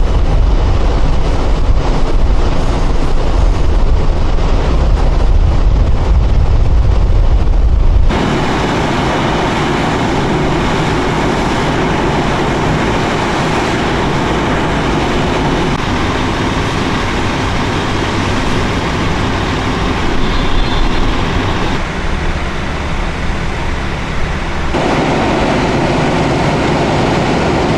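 Steady rumbling vehicle noise with a heavy low rumble that changes abruptly about eight seconds in to a broader, even noise, and shifts again near the end.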